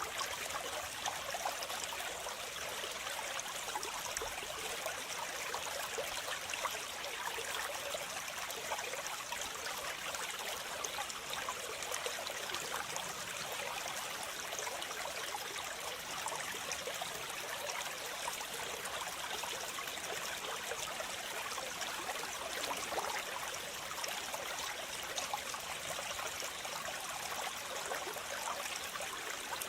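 Steady rush of falling water, an even splashing hiss with little low rumble.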